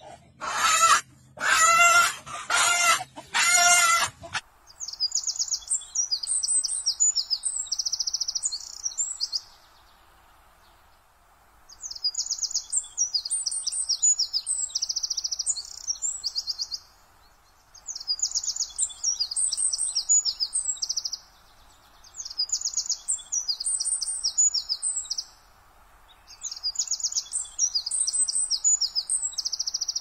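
A hen calls loudly about four times. Then a wren sings five bouts of very high, rapid trilling song, each a few seconds long, with short pauses between them.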